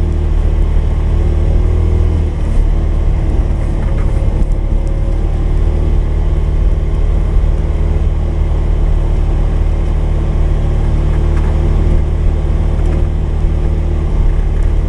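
Polaris 570's single-cylinder engine running steadily, a loud, even low hum.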